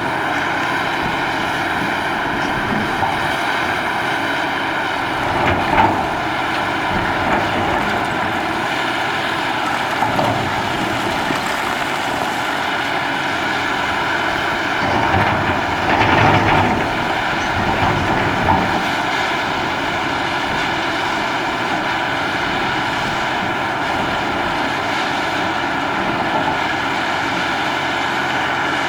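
Diesel engine of a Cat 6015B hydraulic mining shovel running steadily, with a few brief louder surges, the first about six seconds in and the others from about halfway in.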